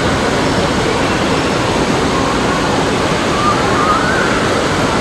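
Loud steady rush of water and crowd din, with faint shouts rising and falling through it.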